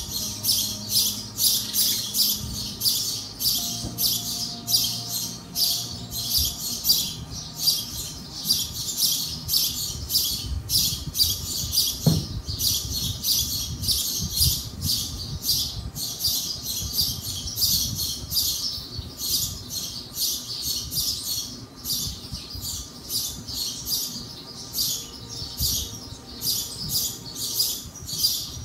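Small bird chirping loudly and steadily, sharp high chirps repeating a few times a second without pause.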